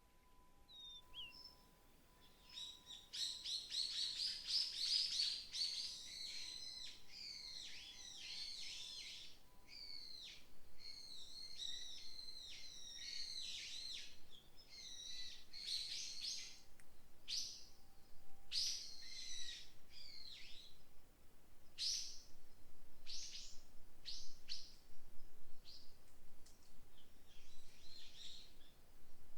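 Small forest birds singing: from about three seconds in a dense run of rapid, high twittering song, thinning after about twenty seconds to separate short chirps.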